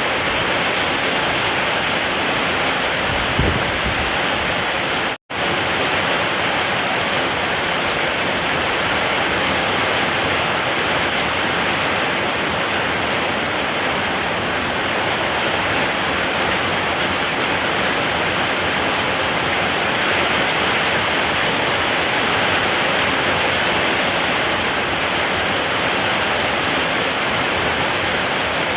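Steady rainfall, an even hiss with no letup. The sound drops out completely for an instant about five seconds in.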